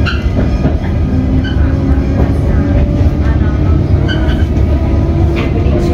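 Comeng electric suburban train running at speed, heard from inside the carriage: a steady low rumble of wheels on track with a faint tone from the running gear and a few short knocks.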